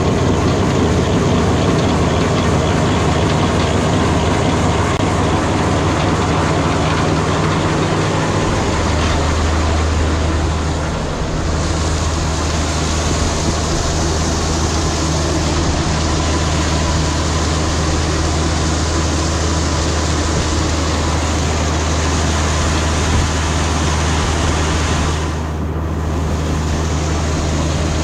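John Deere 4430 diesel tractor driving a PTO feed mill grinding cattle feed: a loud, steady machine drone with a low hum. The hum's pitch shifts between about eight and eleven seconds in, then holds steady again.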